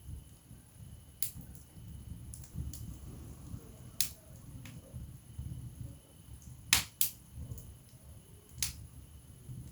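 Wood fire burning in a fireplace: a low flutter of flames with sharp crackles and pops from the burning logs, the loudest a close pair about seven seconds in.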